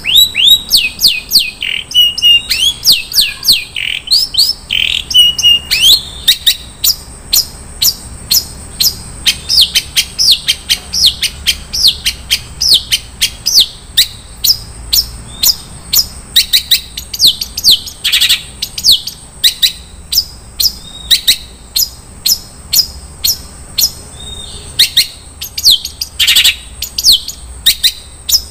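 Long-tailed shrike (cendet) singing a fast, unbroken stream of sharp high chips and quick down-slurred notes, with a few short held whistles in the first seconds: its varied 'isian' song, full of phrases borrowed from other birds.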